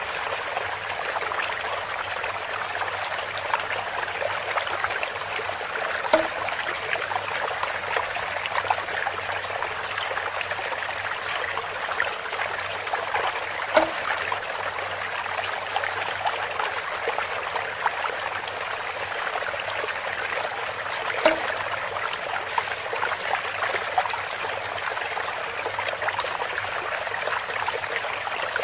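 Water trickling steadily through a bamboo fountain, with a short hollow knock about every seven and a half seconds, three times.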